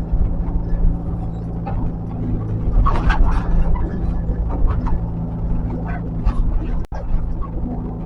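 Heavy earthmoving machine's diesel engine running steadily under work, with a few short sharp sounds over it now and then.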